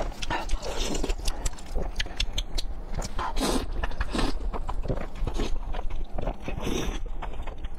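Close-miked eating sounds: chewing with many wet mouth clicks, and several short slurps of spicy noodles.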